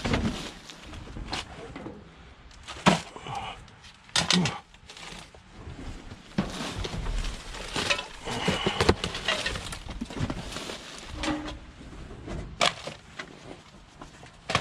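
Rustling and knocking of packaged goods and plastic bags being handled and set down while sorting through dumpster finds, with scattered sharp clunks between softer rustles.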